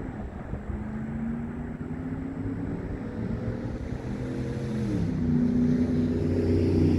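A passing motor vehicle's engine accelerating, its pitch rising slowly and then dropping sharply at a gear change about five seconds in, and growing louder after that.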